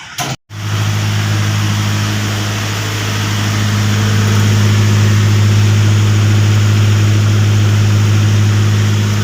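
Perkins-engined 27 kVA diesel generator set running at a steady speed, a loud, even, deep drone. The sound drops out for a split second just after the start, then resumes unchanged.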